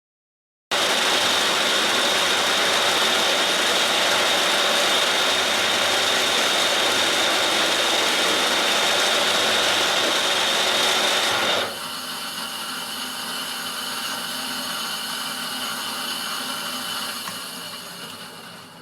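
An 8 mm two-flute round-nosed end mill cutting a flute along a threaded steel hob blank: a steady machining noise with a high whine, dropping to a quieter run about twelve seconds in and dying away near the end.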